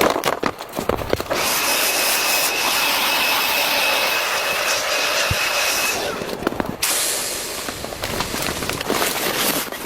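A steady hiss with a thin, high whistle in it, starting abruptly a second or so in and cutting off abruptly about two-thirds of the way through, with irregular crackling and clicks around it.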